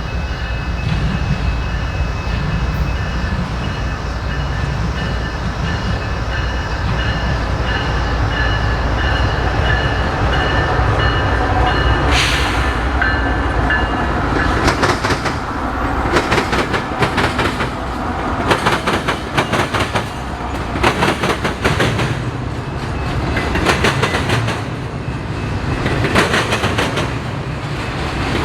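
Train passing close by: a steady low rumble, then from about halfway the wheels of the passing cars clatter in regular clusters of clicks over the rail joints.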